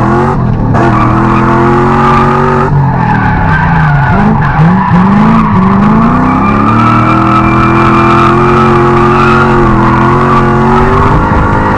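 Drift car engine held high in the revs while the tyres skid. About three seconds in the revs drop and bounce, then climb back up and hold steady through the rest of the slide.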